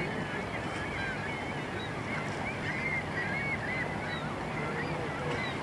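A flock of birds calling over a steady background rush: many short high calls, rising and falling, overlapping one another throughout.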